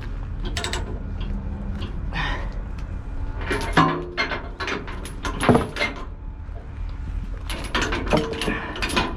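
Metal clanks, clicks and rattles of tie-down gear being worked to secure the machine to the trailer, with two sharper ringing clanks about four and five and a half seconds in, over a steady low rumble.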